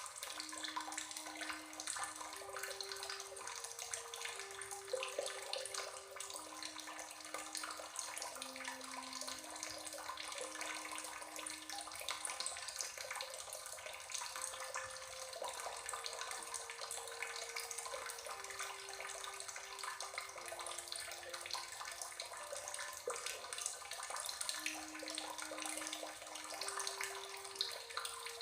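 Steady rushing of running water, with a slow, soft melody of single held notes playing low beneath it.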